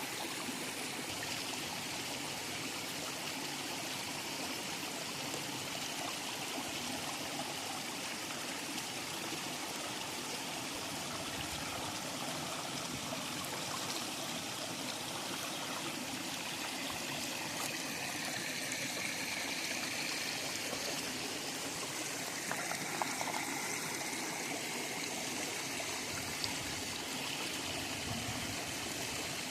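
River water flowing steadily, a continuous rushing and trickling, with a faint brief knock or splash a little over twenty seconds in.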